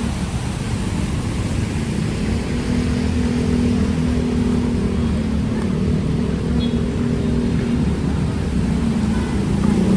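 Motor vehicle engines running in street traffic: a steady, low engine drone.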